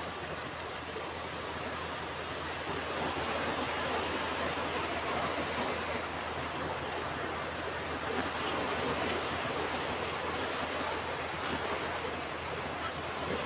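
Ocean surf: waves washing continuously onto a beach in a steady rush, swelling slightly a few seconds in and again a little later.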